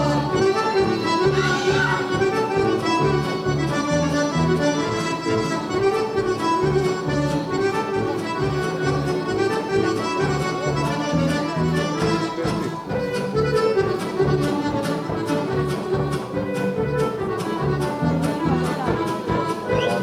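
Accordion-led traditional Serbian folk dance music playing continuously with a steady quick beat.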